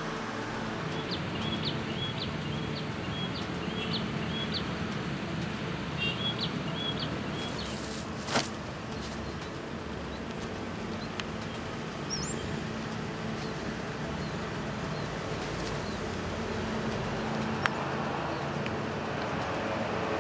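A small bird chirping a short repeated note, about two a second for the first several seconds, over a steady outdoor background hiss. A single sharp click comes about eight seconds in.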